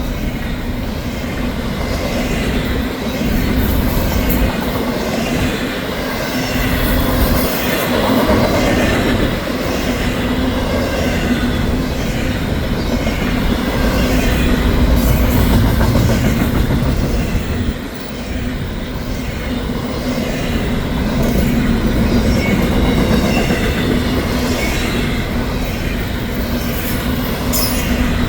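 CSX freight train of trailer-on-flatcar intermodal cars rolling past: a steady rumble of steel wheels on rail, with a repeating clicking as the wheels cross the rail joints.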